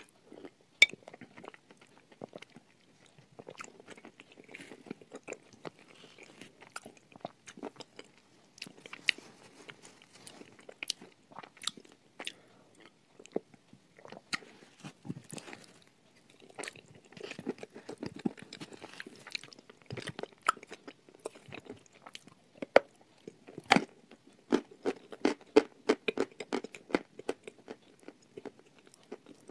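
Close-miked biting and chewing of dry, chalky lumps: a long run of sharp, irregular crunches with softer chewing between, growing denser in the last few seconds.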